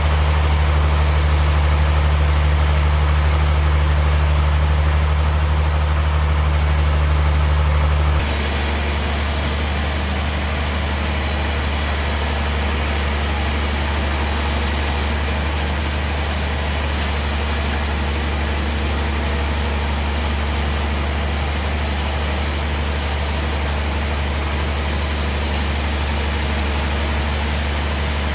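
Bandsaw sawmill machinery running with a steady low drone. About eight seconds in, the sound drops to a quieter, even hum that carries on.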